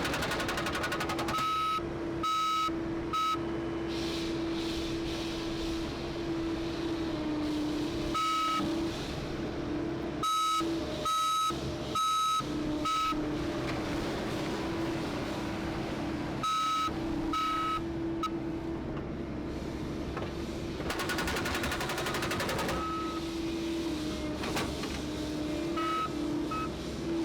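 A construction machine's engine running steadily while its backup alarm beeps in short runs of beeps several times. Twice, briefly, a very rapid rattling of repeated strokes joins in, once at the start and once about 21 seconds in.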